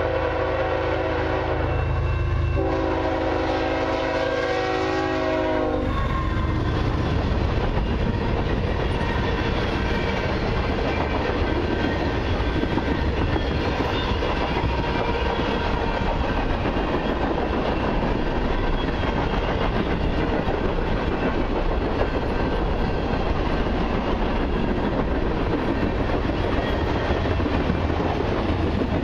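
Canadian Pacific freight locomotive's horn sounding a multi-note chord in two blasts for the road crossing, the second ending about six seconds in. Then the long freight train rolls past, its tank cars and autoracks clattering steadily over the rails.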